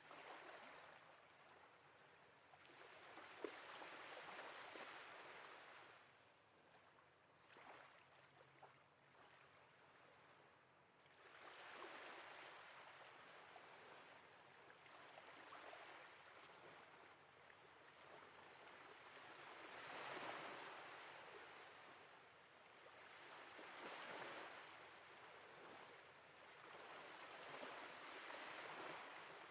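Faint sea waves washing in and ebbing away, a soft swell every three to four seconds.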